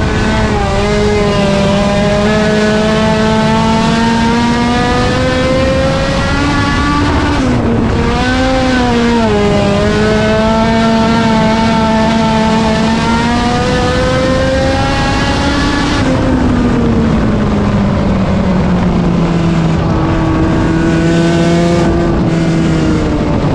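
A race car's engine running hard at high revs, its pitch climbing slowly through a gear. About eight seconds in it dips briefly and rises again, and around sixteen seconds in it falls to a lower, steadier pitch, as when the driver lifts for a turn.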